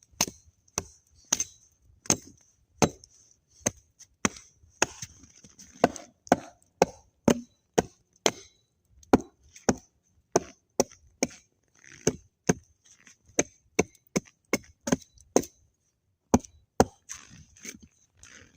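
Axe chopping wood in quick, slightly uneven strokes, about two to three sharp knocks a second.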